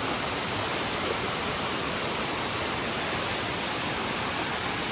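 Waterfall water rushing: a steady, unbroken roar of falling water.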